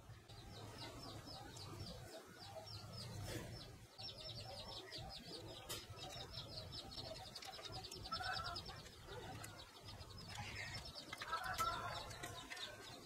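Background birdsong: a long, fast trill of evenly spaced high chirps, growing stronger about four seconds in, with a few lower clucking calls later on.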